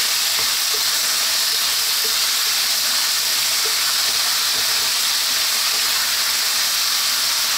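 Cubed pork belly sizzling in hot oil and oyster sauce in a wok as it is stirred with a wooden spatula: a steady, even frying hiss.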